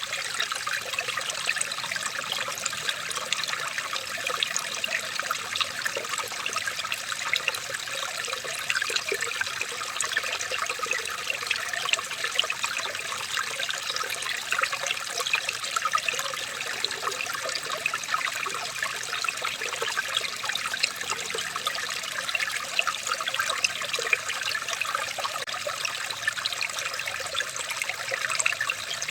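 Small stream of running water trickling steadily, with no change.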